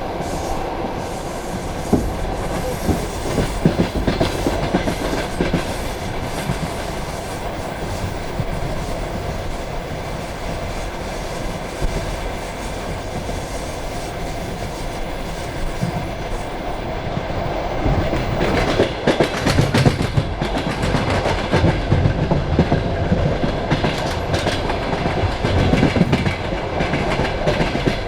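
Passenger train carriage running along the track: a steady rumble of wheels on rail with clickety-clack knocks over the rail joints. The knocks grow louder and more frequent about two-thirds of the way through.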